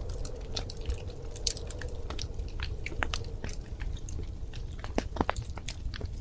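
Wood fire crackling in a fireplace: irregular sharp pops and snaps, a few louder ones, over a low steady rumble of the burning fire.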